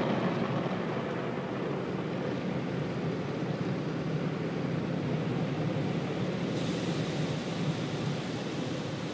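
Automatic car wash machinery heard from inside the car: a steady rushing noise, with a higher hiss joining about two-thirds of the way through.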